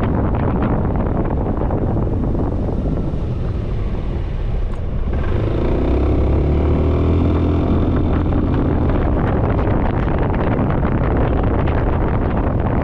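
Wind rushing over the microphone of a moving Suzuki Burgman 400 scooter, with road and engine noise. The rush eases about four seconds in, then the engine note swells as the scooter pulls away again and settles after a few seconds.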